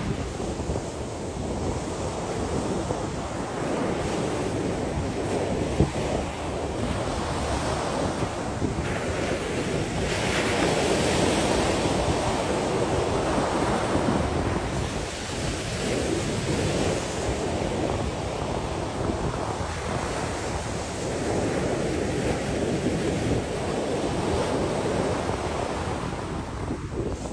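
Sea waves washing and breaking on the shore, with wind buffeting the microphone. A wave swells louder about ten seconds in, then eases back.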